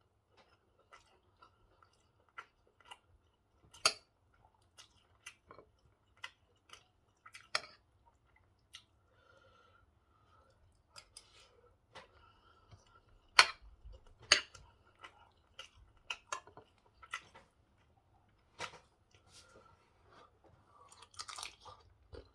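Close-up chewing and lip-smacking of a person eating rice and pork stew: irregular wet smacks and clicks, a few sharper ones standing out.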